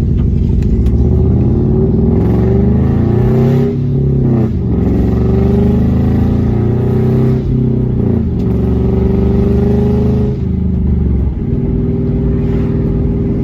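Naturally aspirated 2.5-litre flat-four of a 2005 Subaru Impreza wagon accelerating through the gears. The engine note climbs in pitch, then falls back at each of about three upshifts.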